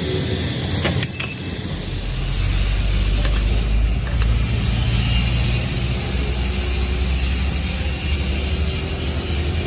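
A machine running with a steady low hum, with a couple of sharp clicks about a second in.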